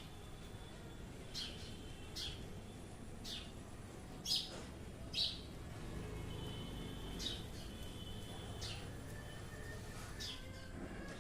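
Birds chirping: short, sharp, downward-sweeping chirps roughly once a second, two louder ones near the middle, over a steady low rumble.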